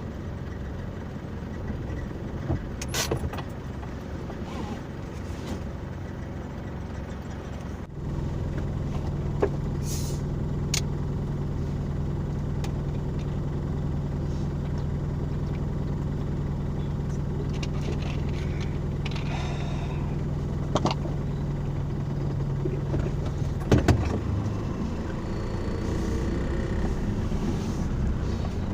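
Car running, a steady engine and road hum. About eight seconds in it grows louder with a steady low drone, which eases again near the end, with a few clicks and knocks along the way.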